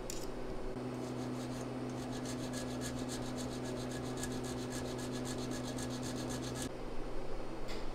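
A piston ring gap filer grinding a piston ring end to set its ring gap: a steady hum with a fast, even rasping of about seven strokes a second. It starts just under a second in and stops near the end.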